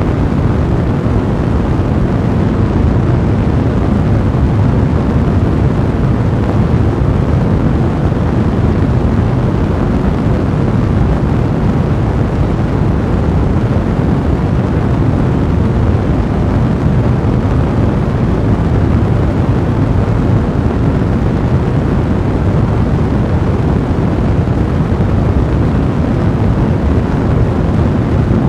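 Fire burning in a fireplace: a steady, dense, low rushing rumble with no separate crackles standing out.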